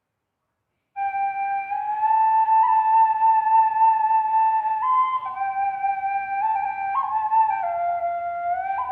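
Thai khlui duct flute in C, still being made and not yet finished, test-played in slow held notes that step up and down, with small slides between some of them; it comes in about a second in.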